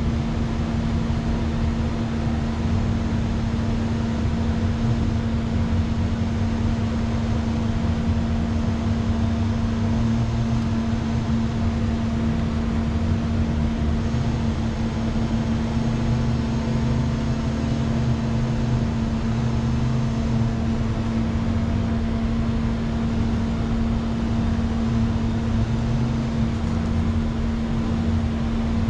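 A vehicle running steadily: a constant hum over a low rumble, with no change in speed or pitch.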